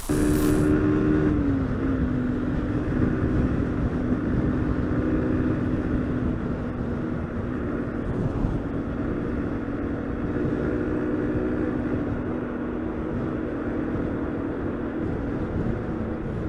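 Motorcycle engine running at a steady speed while riding, with a steady rushing noise under it; the engine note drops a little about a second and a half in, then holds.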